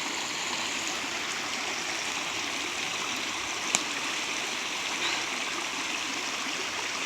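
Rain-swollen creek running fast over rocks, a steady rush of water, with one brief sharp click a little under four seconds in.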